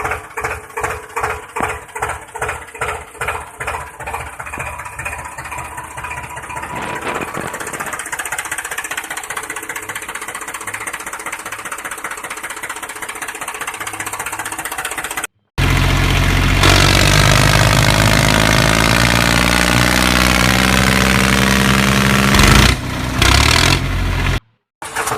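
Small electric motor of a DIY mini tractor running with a regular chugging pulse, about two to three beats a second, that smooths into a steadier run. About fifteen seconds in it cuts abruptly to a much louder, steady sound with several pitches and a few falling glides, lasting about nine seconds before another abrupt cut.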